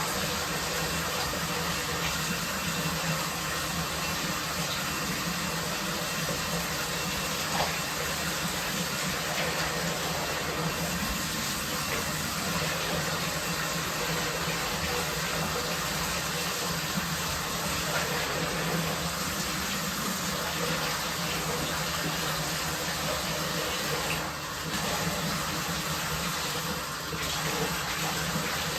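Water running steadily from a tap, with no break.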